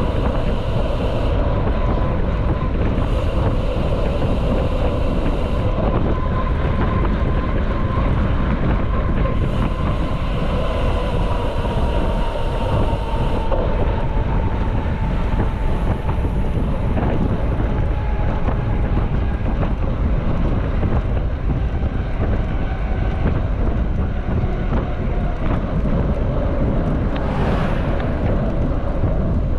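Wind rumbling on the microphone while moving, with a steady hum underneath that slowly drops in pitch.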